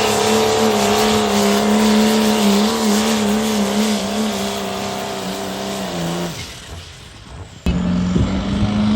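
A truck engine held at steady high revs, with a slight waver in pitch, then letting off about six seconds in and fading away. About a second before the end, an abrupt cut brings in a different loud engine sound.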